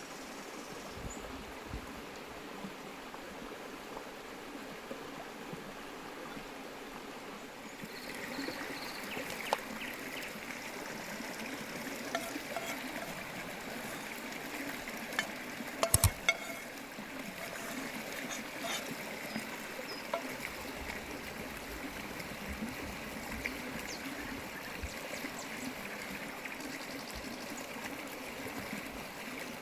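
Steady trickling, running water that grows a little louder about eight seconds in, with a few sharp clicks or knocks; the loudest knock comes about halfway through.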